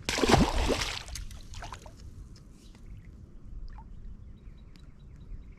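A splash of water lasting about a second, followed by faint scattered clicks and rustles.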